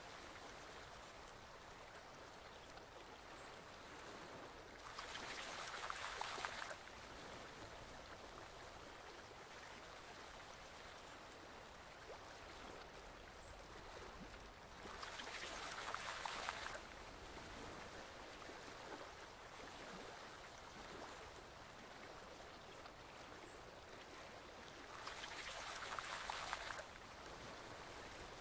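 Forest stream flowing steadily. The water swells louder for about two seconds three times, evenly spaced about ten seconds apart.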